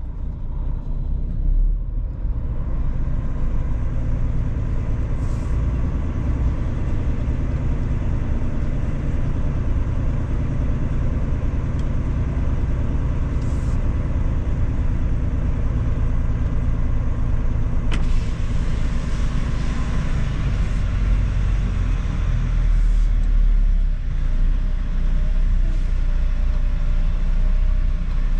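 Semi truck's diesel engine running with road rumble, heard from inside the cab while driving.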